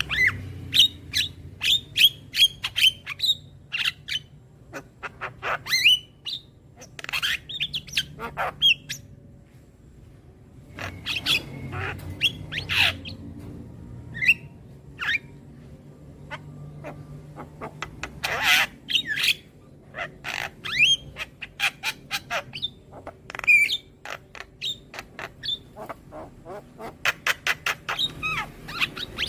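Javan myna (jalak kebo) calling: a busy run of harsh squawks, clicks and short whistled notes, some sweeping downward, with quick chattering strings of notes near the end.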